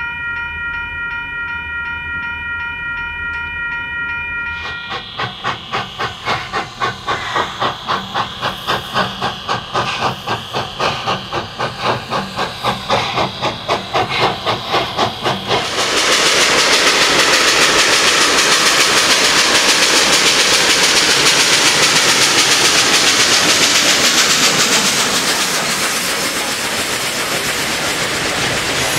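A diesel locomotive's horn sounds a steady chord over the engine's idle. Then a steam locomotive, Nevada Northern No. 93, chuffs at about two exhaust beats a second. About halfway through, a loud, even hiss of steam takes over, easing near the end into the steady rumble of a freight train rolling past.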